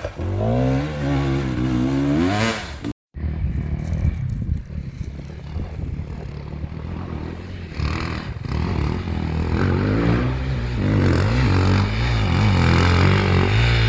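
Enduro motorcycle engine revving, its pitch rising and falling, cut off abruptly about three seconds in. It is followed by a lower, uneven engine note under load.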